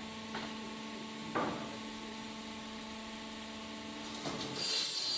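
Sawmill machinery running with a steady hum and a couple of knocks. Near the end a louder, high-pitched cutting noise sets in as the saw works through wood.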